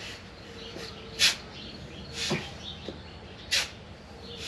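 Small bird chirping: a handful of short, sharp, high chirps about a second apart, two of them louder than the rest, over a faint low steady hum.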